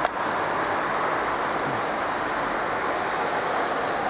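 Steady rushing outdoor noise of wind and sea surf, with one short click right at the start.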